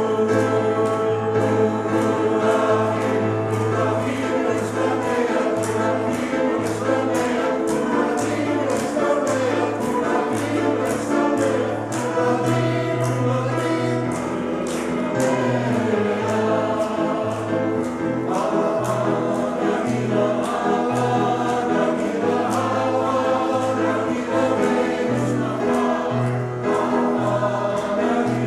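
Choir singing an upbeat song with accompaniment: a pulsing bass line under the voices and a steady beat.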